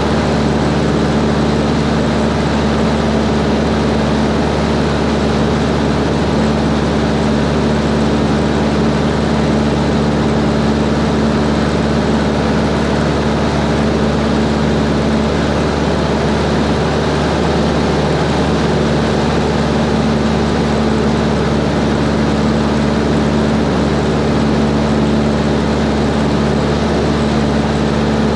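Cessna 140 light airplane's piston engine and propeller running steadily at a constant power setting, with a continuous rush of noise.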